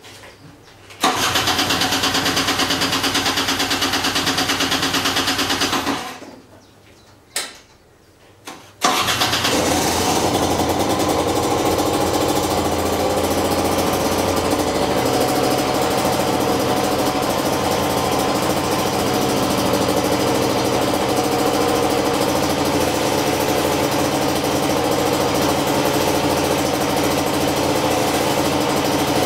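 Honda NSR125 single-cylinder two-stroke cold-starting through a Giannelli Street exhaust. It fires about a second in, runs for about five seconds and dies away, then gives two short coughs. Near nine seconds it catches and settles into a steady idle.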